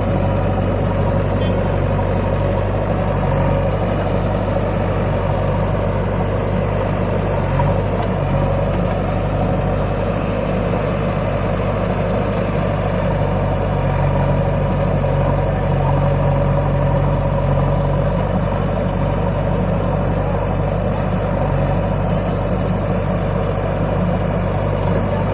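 Tractor diesel engine running steadily at an even speed, with no revving.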